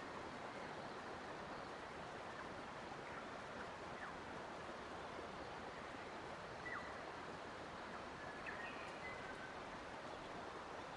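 Steady rush of running water, with a handful of faint, short bird chirps scattered through it. The clearest chirps come about two-thirds of the way in.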